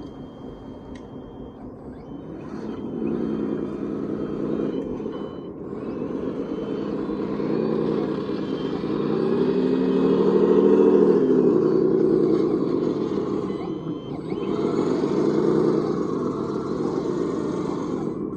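Radio-controlled scale construction machine working: a pitched motor hum that swells and sinks in pitch several times as the machine is driven, loudest about two-thirds of the way through.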